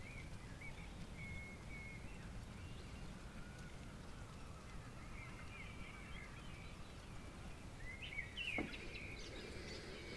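Birds chirping and warbling in the early-morning dawn chorus over a faint, steady low rumble, with a busier burst of calls and a sharp click about eight and a half seconds in.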